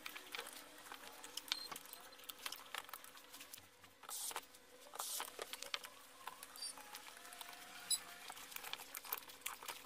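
Faint scattered clicks, taps and scratching of wires and plastic parts being handled as the battery wires are pushed into a cordless vacuum cleaner's housing.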